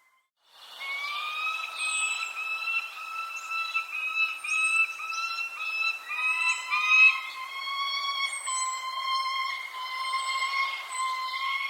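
Birds calling: short, high, falling chirps every second or so over a steady whistling call that shifts slightly lower about halfway through. Just before the calls, the sound drops out briefly.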